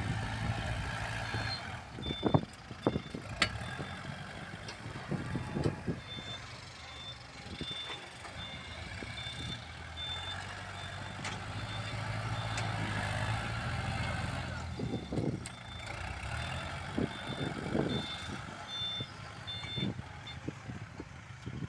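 Diesel engine of a Kubota L47 tractor-loader-backhoe working while pushing soil, its rumble swelling in the middle, with a reversing alarm beeping steadily through most of the stretch and occasional clunks.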